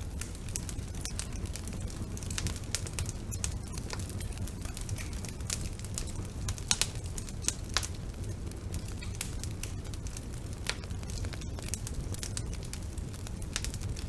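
Wood fire burning in a fireplace: irregular crackles and sharp pops over a low steady rumble, with a few louder pops about halfway through.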